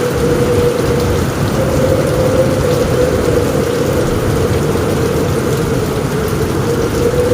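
Rain falling steadily on a roof, with a low rumble and a steady hum underneath.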